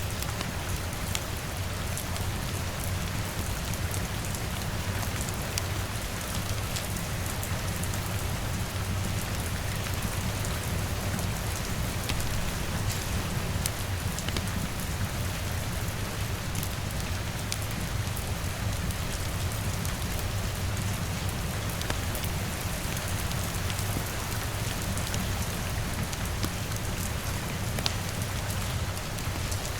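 Steady rain falling on a window and roof, with a low rumble beneath it. Scattered small sharp pops from a crackling wood fire sound throughout.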